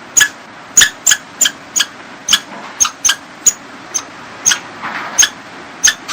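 Squirrel calling with a run of short, sharp, high chirps, about two a second at an uneven pace, typical of a squirrel's alarm call.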